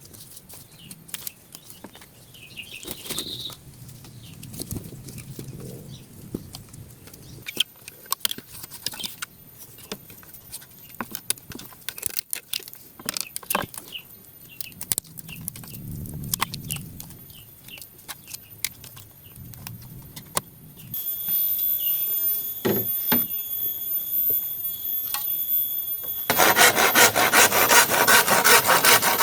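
Scattered knocks and crackles of hands working wood and leaves. About four seconds before the end a blade starts rasping across wood in fast, even strokes, much louder than anything before it.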